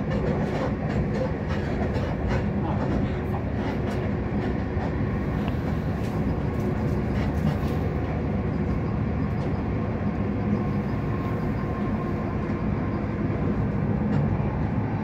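Steady running noise heard inside a Class 458/5 electric multiple unit in motion, with faint clicks from the wheels on the rails.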